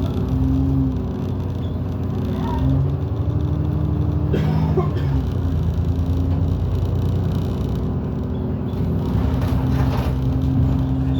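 London bus engine and drivetrain heard from on board, running with a steady low drone whose pitch steps up and down several times. A brief rattle comes about four and a half seconds in.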